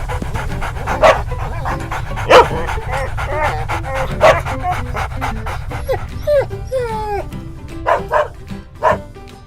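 Several dogs barking and yipping at irregular intervals, with a few falling yelps about two-thirds of the way through, over background music with a steady beat.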